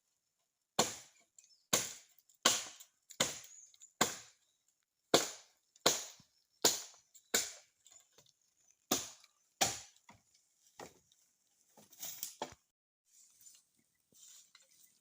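Repeated chopping strikes with a hand tool, about a dozen sharp blows, roughly one every 0.7 s. They give way after about ten seconds to fainter, scattered knocks.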